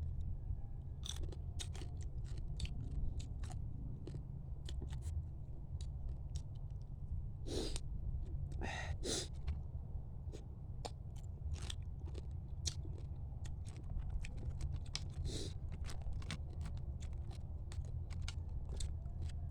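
Close-up chewing and crunching while eating mud crab, with irregular sharp cracks and crackles over a steady low hum.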